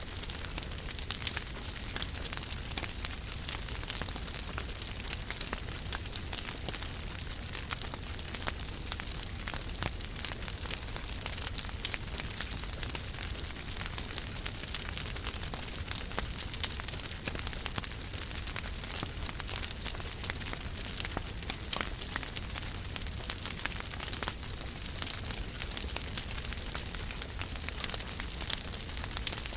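Wood fire crackling in a fireplace: a steady hiss full of small crackles, with a few louder pops, about a second in, near the middle and a little later, over a low rumble.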